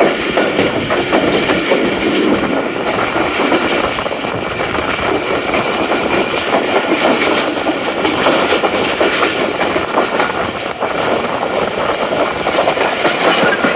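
Tezgam Express passenger train running along the track: a steady rumble of wheels on rails with clickety-clack.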